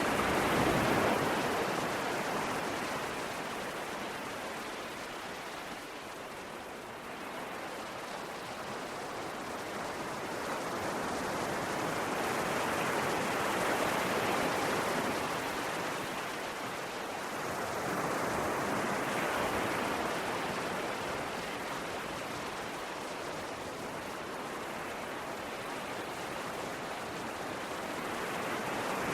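Sea waves surging and washing on a shore, a continuous rush of surf that swells and eases slowly, with louder swells about a second in, around the middle and near the end.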